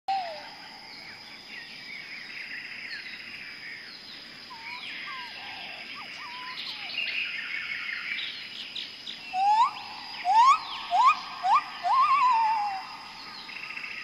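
Several birds chirping and singing, with a loud run of five short rising calls about nine to thirteen seconds in, the last one wavering as it falls away.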